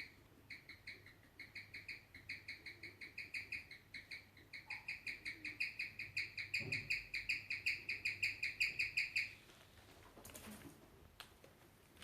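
Guinea pig chirping: a fast, even series of short, high, bird-like chirps, about five a second, growing louder and then stopping suddenly a little past nine seconds in. Chirping is a rare guinea pig call held to be a sign of inner tension, though its exact cause is not established.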